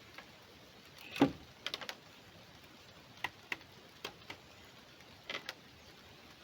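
A single heavy knock about a second in, followed by scattered light clicks and taps, some in quick pairs.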